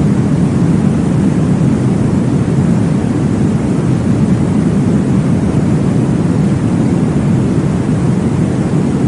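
Steady, deep whooshing noise, heaviest low down and even in level, with no distinct beats: a womb-sound white noise made for baby sleep.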